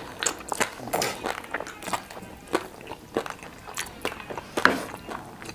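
Close-miked eating: biting into and chewing cabbage-wrapped momo dumplings, with irregular wet mouth clicks and smacks.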